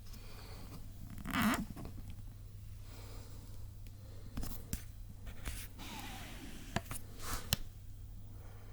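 Scattered light rustles and a few sharp clicks of handling, over a steady low hum.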